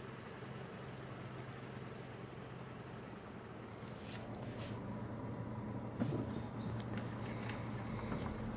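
Outdoor ambience: a steady low hum with a small bird's high, rapid chirps, once about a second in and again around five to six seconds. A brief soft knock comes about six seconds in.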